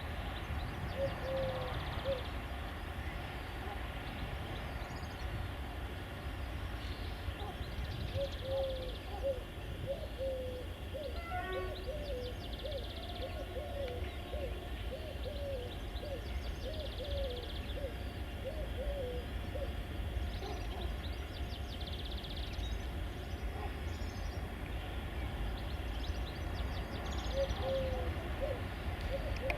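Outdoor birdsong: runs of short, low, repeated calling notes, with scattered high chirps from other birds over a steady low rumble.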